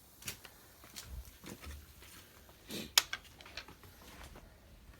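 Dishes clinking and knocking during washing-up: a few scattered sharp clicks, the loudest about three seconds in.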